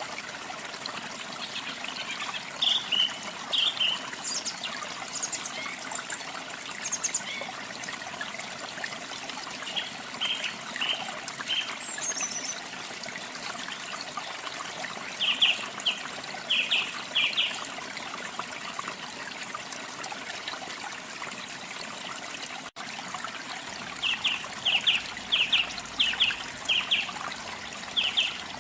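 Running water trickling steadily, with a small bird chirping over it in several short bursts of three to five quick high notes. The sound cuts out for an instant about two-thirds of the way through.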